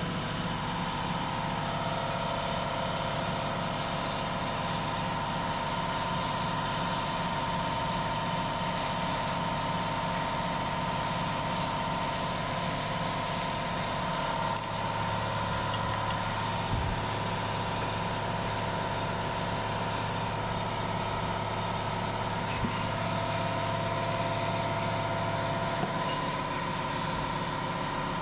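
An engine idling steadily: an even hum with a constant higher whine, and a few faint clicks.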